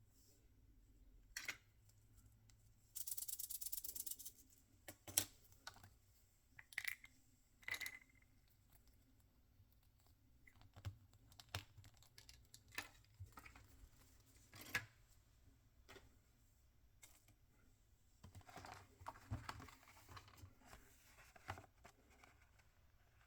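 Hands opening and handling small toy packaging: a fast rasping burst about a second long near the start, like packaging being torn or cut open, then scattered light clicks, taps and crinkles of plastic and paper.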